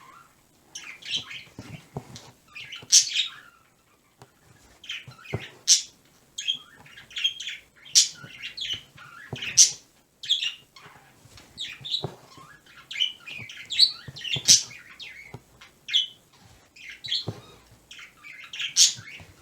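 Pet bird chirping and calling in short, irregular bursts, several a second, with brief pauses between runs.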